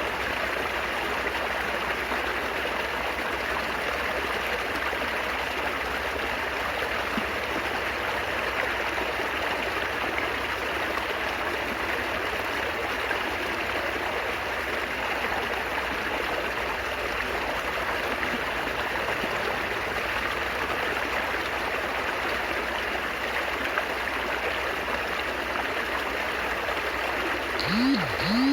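Water trickling and babbling steadily. Near the end, two short pitched sounds cut in briefly.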